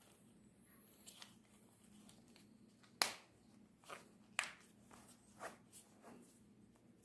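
A few light, sharp clicks and taps of small hard objects being handled, about five in all from about three seconds in, the first the loudest.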